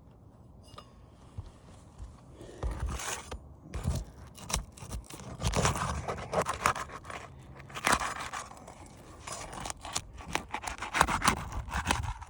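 A roof shingle being worked loose and pulled up: irregular scraping and tearing with sharp clicks, starting about two seconds in.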